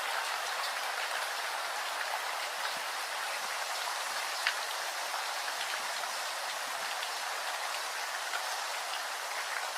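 Steady rainfall, an even patter with scattered individual drop ticks, one a little louder about four and a half seconds in.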